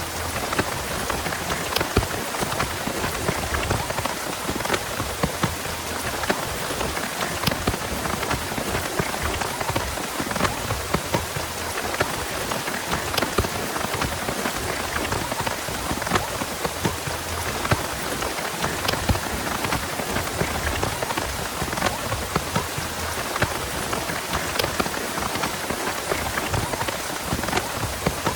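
Heavy rain falling steadily, with many sharp ticks of individual drops striking a surface.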